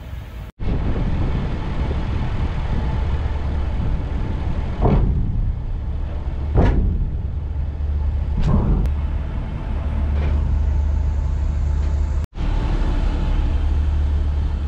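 Steady low rumble of a vehicle on the road, with a few brief louder swells. It cuts off abruptly twice where clips are joined.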